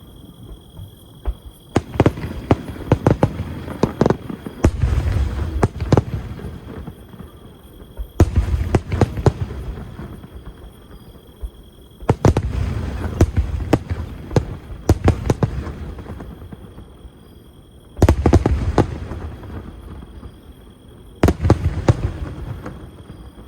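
Fireworks shells bursting, about six in all a few seconds apart. Each burst is followed by a spell of crackling and popping that dies away before the next.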